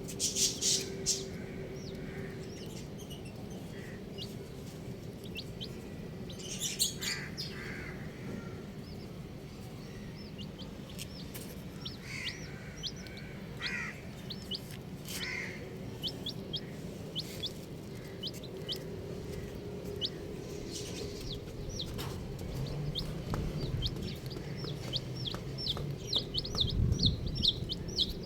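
Baby chicks peeping: many short, high-pitched chirps, sparse at first and coming thick and fast near the end, with a few lower clucking calls in the middle.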